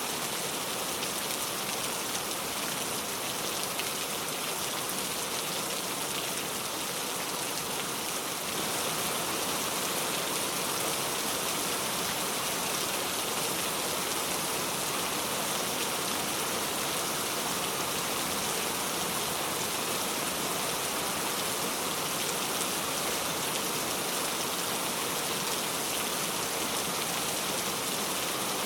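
Steady rainfall, an even hiss of falling drops, growing slightly louder about eight seconds in.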